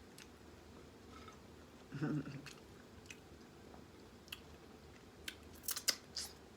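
Close-miked chewing and mouth smacking while eating a pork chop sandwich, with scattered wet clicks that cluster near the end. A brief hummed "mm" comes about two seconds in.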